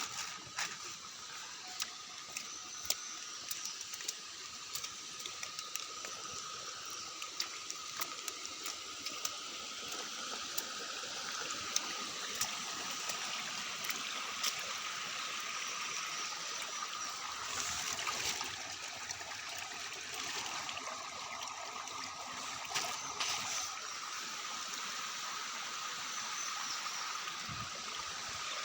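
Heavy rain falling steadily: a continuous hiss of water with scattered sharp drops tapping and water trickling off surfaces.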